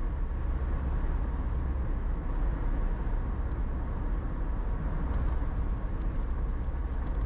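Steady road and engine rumble inside a moving car's cabin, even and unbroken.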